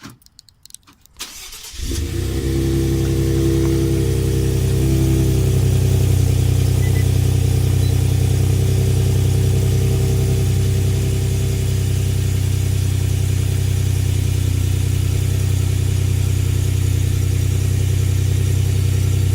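2017 Ford F-150's 2.7-litre twin-turbo V6 starting about a second and a half in, after a few faint clicks, then idling steadily. For the first few seconds after it catches, a higher note sits over the idle and then fades.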